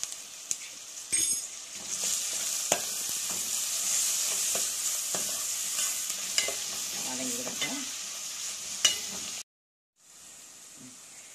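Chopped onions, green chillies and ginger-garlic paste sizzling in oil in a stainless-steel pan as they are sautéed, with a steel spoon stirring and now and then clinking against the pan. The sizzle breaks off for a moment near the end, then comes back quieter.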